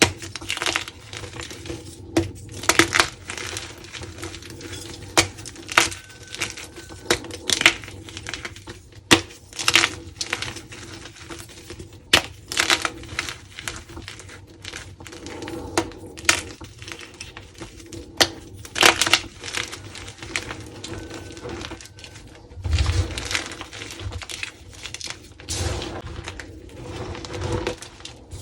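Dyed crunchy gym chalk being crushed and crumbled: irregular crisp crunches and crackles, with a few low thuds in the last few seconds.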